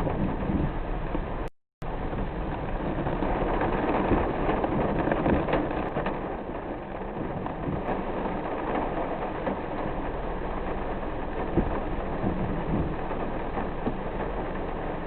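Rain pattering on a moving car, mixed with steady engine and tyre noise. The sound cuts out completely for a moment about a second and a half in.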